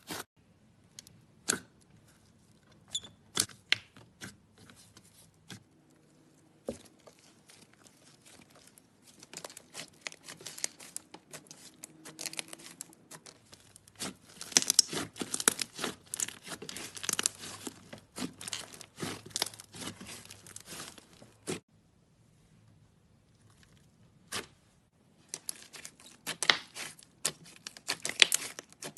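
Slime being squeezed and pulled by hand, making crackling and popping clicks. The clicks come sparsely at first, then in dense crackling runs with a short lull near the end.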